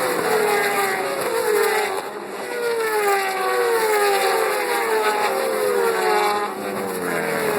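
A pack of superbike racing motorcycles passing one after another at full speed. Each engine's loud, high note falls in pitch as it goes by, in a string of overlapping drops about a second apart.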